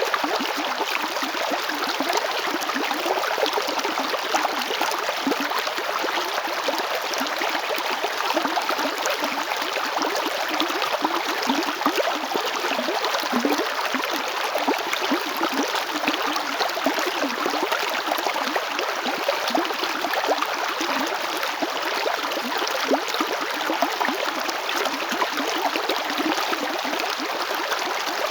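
Chalchaní river flowing over its bed: a steady, even rush of running water.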